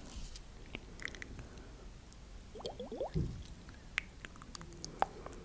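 Close-miked wet ASMR mouth sounds: scattered soft clicks and smacks, with a short cluster of squeaky sweeps about three seconds in and a sharper click near the end.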